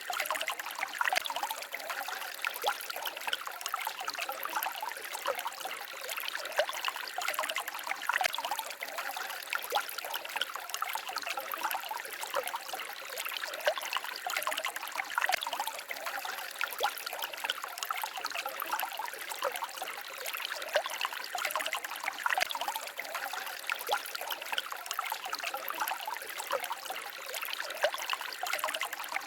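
Small forest stream babbling and trickling over stones, a steady bubbling with many small splashes and no pauses.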